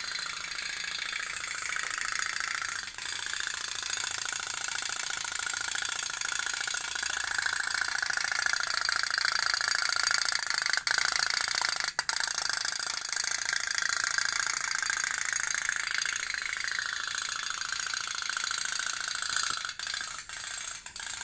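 Otok-otok toy steam boat (pop-pop boat) running, its heated boiler diaphragm making a fast, continuous rattling putt-putt, the pitch drifting up and then back down.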